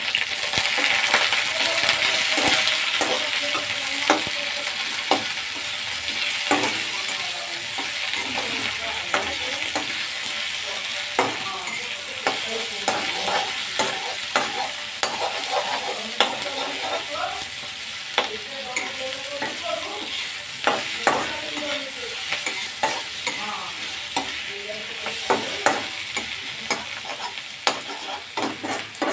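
Onions and spices sizzling in hot oil in a kadai, with a spatula stirring and scraping against the pan in frequent short knocks and scrapes. The sizzle is loudest in the first few seconds.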